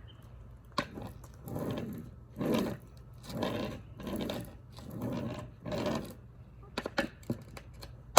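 About six scraping strokes against the ground, one every second or so, with a sharp knock about a second in and a few sharp clicks and knocks near the end.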